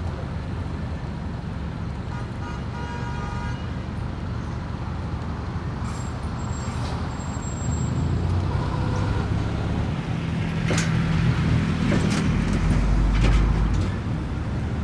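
City street traffic: a steady rumble of passing cars, with a faint horn about two seconds in and a thin high squeal around six seconds in. In the second half a heavy vehicle passes, louder and deeper, with a few sharp knocks.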